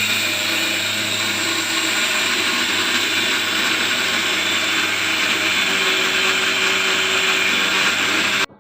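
Handheld electric power tool running steadily at full speed, a loud even whirring hiss.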